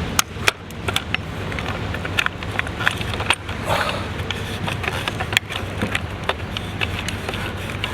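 Irregular clicks and knocks of streetboard parts being handled and fitted together by hand, over a steady low rumble.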